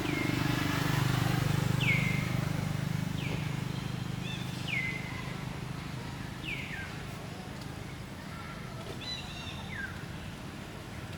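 Short high animal calls, each sliding downward in pitch, repeated about once a second, over a low motor hum that fades after the first few seconds.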